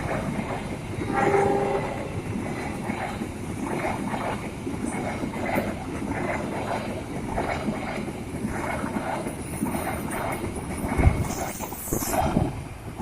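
Train passing with a short horn blast about a second in, then its wheels clicking over the rail joints in a steady rhythm, and a brief high-pitched squeal near the end.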